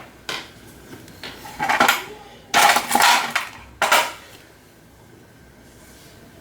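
Metal tools and parts clinking and clattering in several bursts while screws are taken out of a washing machine, then going quiet about four seconds in.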